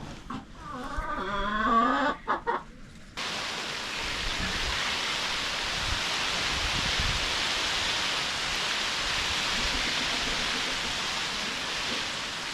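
Chickens clucking for about the first three seconds, then a steady hiss starts suddenly and runs on.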